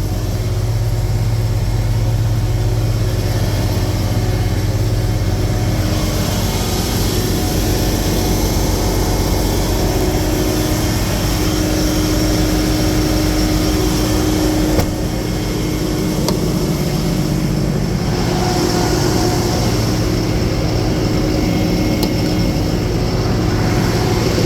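Freightliner M2's Cummins diesel engine idling steadily, with a single sharp click about fifteen seconds in.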